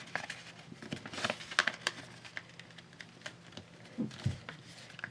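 Sheet of paper being folded and creased by hand, with light crinkling and scattered small taps and clicks as it is handled, and a soft thump about four seconds in.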